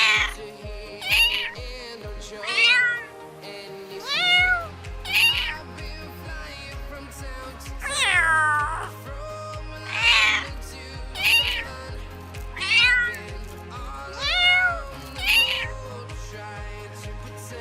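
Domestic cats meowing again and again, about a dozen meows, one every second or so, over background music.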